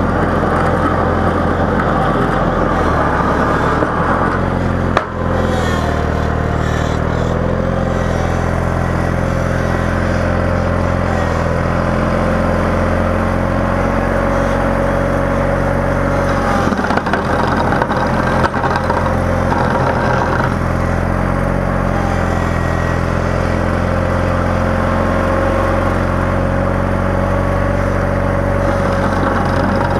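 Engine of a snow-plowing vehicle running steadily under load, with a single sharp knock about five seconds in and brief clattering around two-thirds of the way through.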